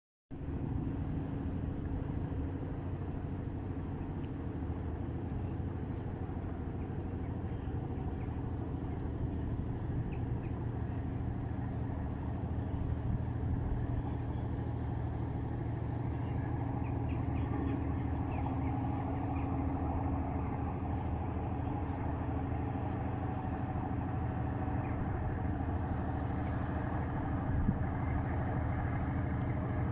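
Small boat's inboard engine running at a steady low speed, a constant low hum.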